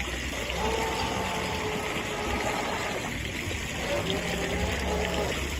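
Electric motor of a Traxxas M41 radio-controlled speedboat whining steadily as it runs across the water, over a hiss of water. The whine fades about halfway through, comes back lower in pitch, then rises again near the end as the throttle changes.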